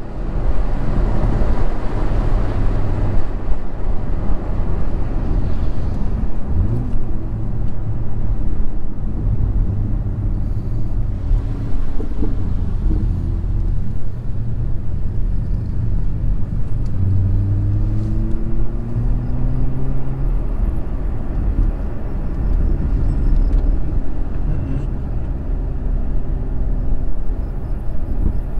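BMW M2 Competition's twin-turbo straight-six running under way, a steady low drone mixed with road noise. Its pitch rises for a few seconds about two-thirds of the way through as the car accelerates.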